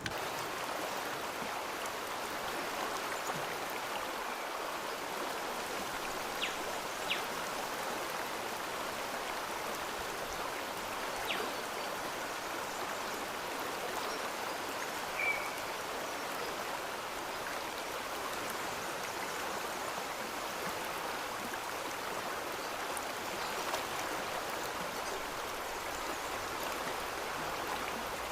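A stream flowing steadily, with a few faint ticks on top.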